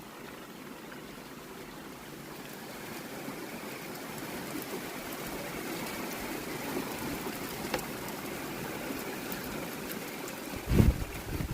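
Heavy rain pouring down steadily, growing slightly heavier a few seconds in, with a couple of low bumps near the end.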